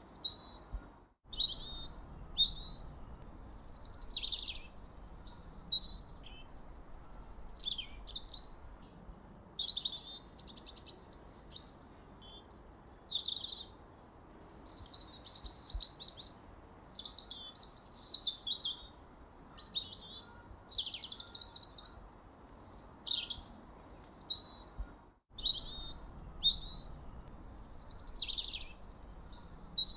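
Songbirds singing and chirping: a dense chorus of quick, high warbles and chirps overlapping one another, broken twice by a brief cut to silence, about a second in and near the end.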